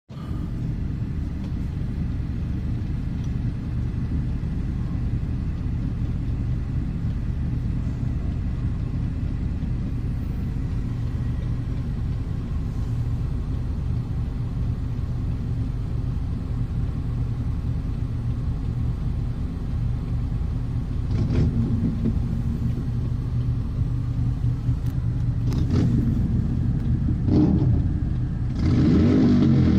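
Harley-Davidson motorcycle's V-twin engine running with a steady low rumble, swelling louder several times in the last third as it is revved or pulls away.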